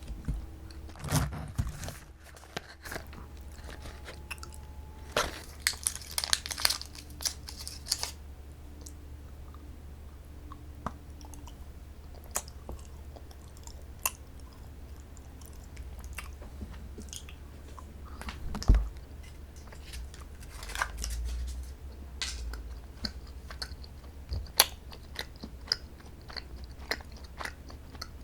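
A person chewing and biting strawberry desserts close to the microphone, with crunching bites and scattered sharp clicks and taps, the loudest about two-thirds of the way in; a steady low hum runs underneath.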